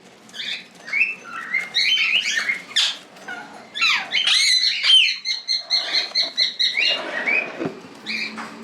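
Cockatiels calling: a string of short chirps and whistled notes that rise and fall, with a fast run of repeated notes around the middle.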